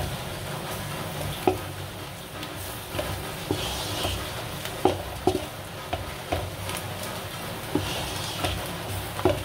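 Sliced onions, chillies and ground biryani spice sizzling as they are sautéed in a non-stick pan. A wooden spatula stirs them, knocking and scraping against the pan at irregular moments, roughly once a second.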